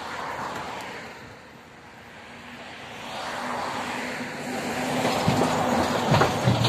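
Passenger train approaching the level crossing: rumble and wheel noise building louder over several seconds, with a few knocks near the end before it cuts off.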